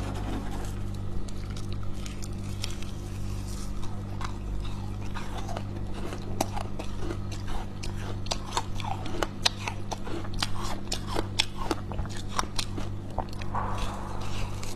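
Someone biting and chewing freezer frost: crisp crunches that come sparsely at first, then thick and fast through the second half, over a steady low hum.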